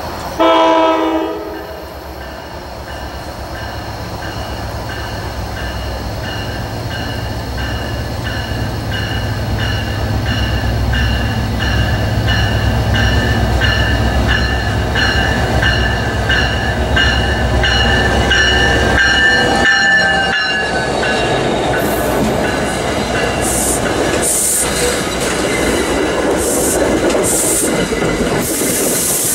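NJ Transit PL42AC diesel locomotive giving a short horn blast about half a second in, then drawing closer with its engine drone growing louder until it passes. The passenger coaches follow, rolling by with a clickety-clack of wheels over the rail joints.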